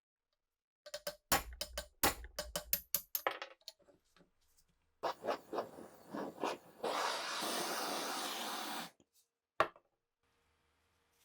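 Workshop handling during a rifle restoration: a quick run of sharp clicks and knocks, then more knocks and scraping, then a steady hiss for about two seconds that cuts off suddenly, and one last click.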